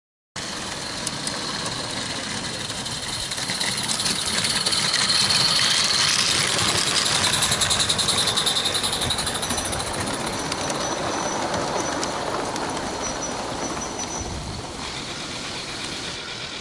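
Small-scale model garden railway locomotive running past on the track. The sound swells from about four seconds in with a fast, even chuffing flutter, then eases off again.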